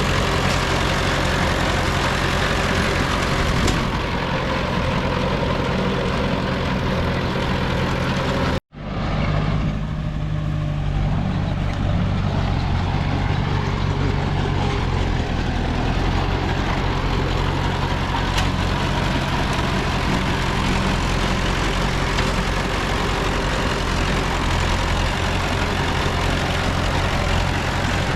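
Heavy diesel engine of earthmoving machinery running steadily, with a deep low drone. About nine seconds in, the sound cuts out for an instant, as at an edit, and the engine resumes with a heavier low note.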